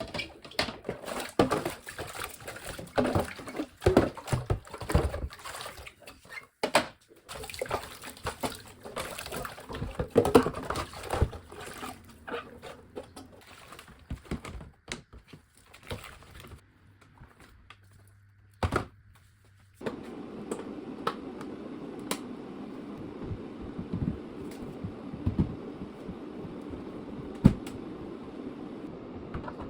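Household cleaning sounds: irregular knocks and clatter of things being handled, with water. About two-thirds of the way through, a steady rushing noise sets in under a few scattered knocks.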